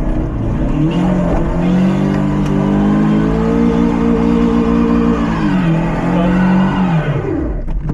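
Lifted Mazda MX-5's four-cylinder engine revving hard as the car climbs a trial section. The pitch rises over the first couple of seconds and holds high, steps down a little about five seconds in, then falls away near the end as the driver lifts off.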